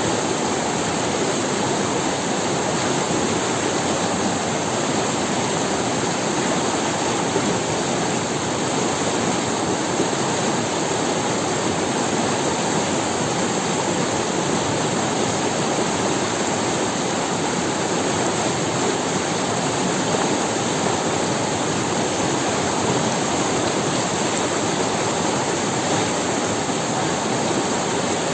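River water rushing over stones: a steady, unbroken rushing.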